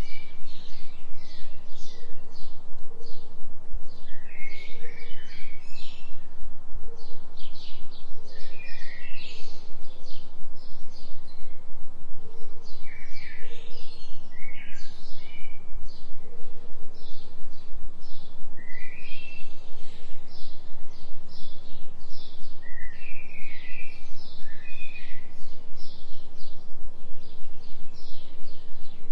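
Forest birds chirping and calling in quick bursts, over a steady low hum: a delta binaural-beat tone mixed under the nature recording.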